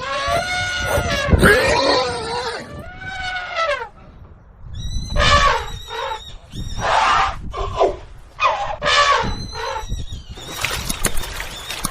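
Horses whinnying, a string of about six or seven loud calls one after another, each wavering in pitch.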